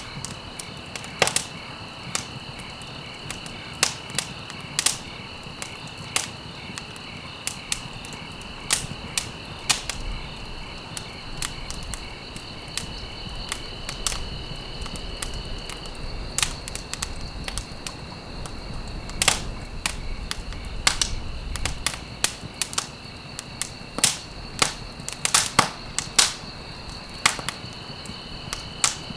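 Burning wood in a fireplace crackling, irregular sharp pops and snaps, some in quick clusters, over a steady soft hiss.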